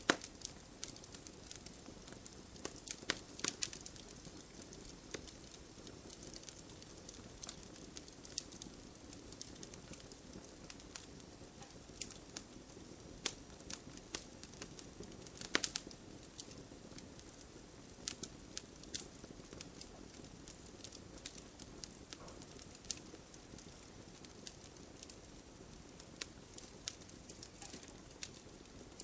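Wood fire crackling and popping irregularly, with sharp snaps scattered throughout, over a steady patter of rain.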